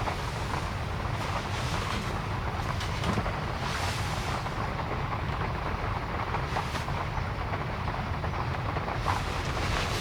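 A vehicle running on a wet road in rain: a steady low rumble under a hiss of spray, which swells briefly every few seconds.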